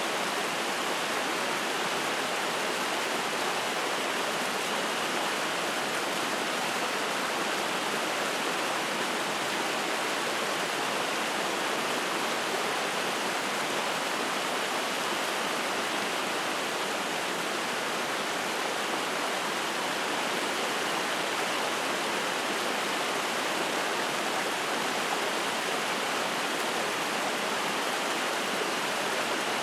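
Mountain stream rushing and splashing over rocks, a steady even rush of water.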